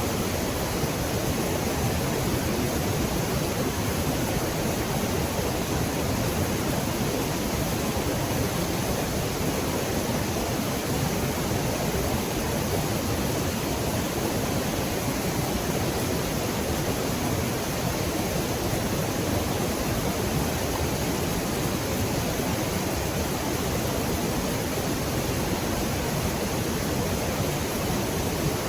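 Loud, steady rushing of river water with no breaks or changes.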